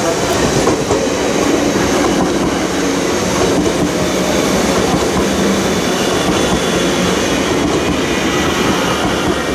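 Siemens Desiro electric multiple unit passing close by: a steady rush of wheels on rail with faint clicking from the wheels.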